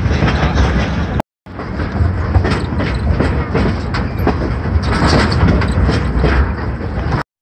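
Ride noise of a railway passenger car on the move: steel wheels running and clicking over the rails under a heavy low rumble. The sound drops out for a moment about a second in, then carries on steadily.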